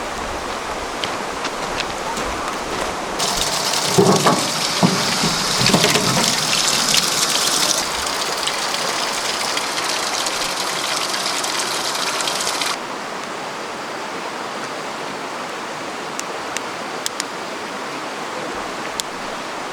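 Mountain stream rushing steadily, with a few dull knocks about four to six seconds in.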